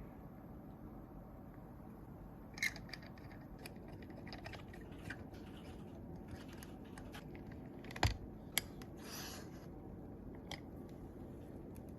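Small hand tools and parts handled on an iPhone 11 under repair: scattered light clicks and taps, the loudest about eight seconds in, and a brief scrape just after, over a steady low hum.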